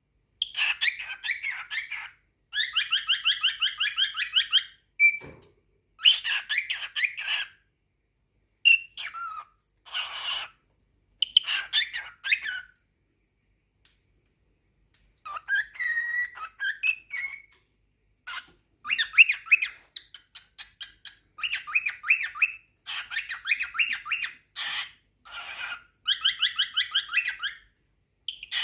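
Male cockatiel singing its courtship song: repeated bouts of fast chattering, warbling trills broken by short whistled notes and brief pauses.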